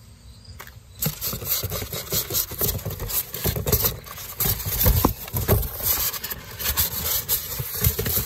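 Handling noise from a cardboard box and the fan parts packed in it: irregular rubbing and scraping with scattered knocks and bumps, starting about a second in.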